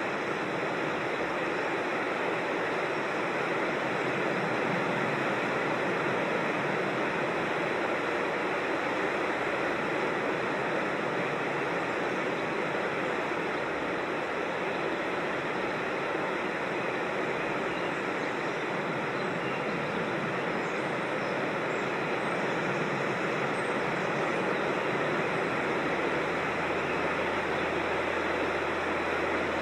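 Creek water rushing and falling over rocks: a steady, even roar with no breaks.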